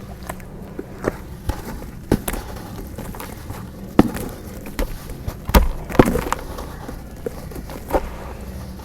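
Chunks of dried dirt crumbling and breaking: irregular cracks and crunches, with a few louder snaps around the middle and one near the end, over a steady low hum.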